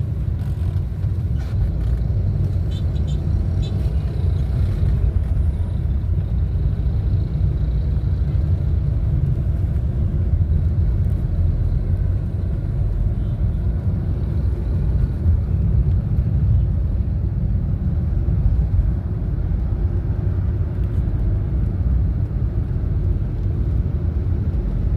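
Steady low rumble of a moving road vehicle, with no distinct events standing out.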